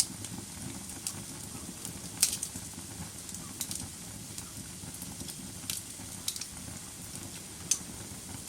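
Wood fire burning in a fireplace: a steady low rumble of flames with irregular sharp crackles and pops, the loudest a little over two seconds in.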